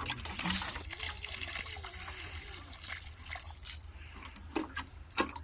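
Water splashing and trickling, with irregular sharp splashes over a continuous hiss.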